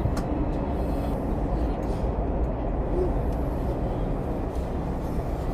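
Steady low rumble of an SRT high-speed train, an even noise with no distinct events.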